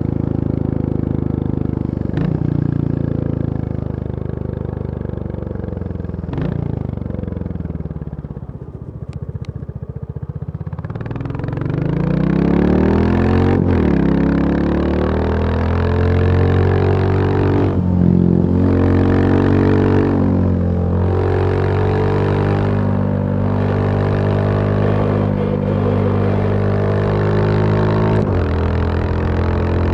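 Royal Enfield Bullet 350's single-cylinder engine running. Its speed falls away over the first ten seconds or so, then climbs again with several brief dips and recoveries, and runs steadier near the end.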